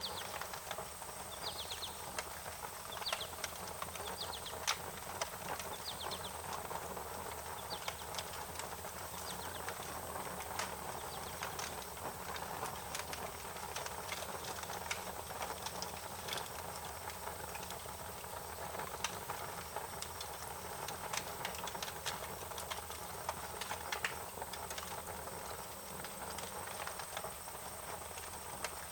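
Wood fire crackling, with irregular sharp pops and snaps over a steady hiss. A few short, quick bird chirps come in the first few seconds.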